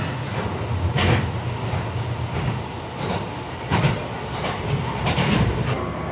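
One-car diesel railcar running, heard from on board: a steady low engine drone, with the wheels clacking over rail joints several times.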